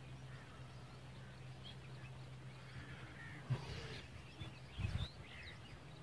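Birds calling faintly, with many short scattered calls over a steady low hum. Two dull bumps come about three and a half and five seconds in.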